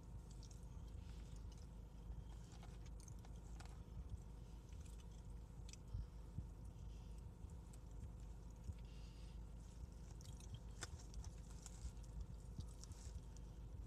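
Faint chewing and mouth sounds of someone eating, with scattered small clicks and smacks.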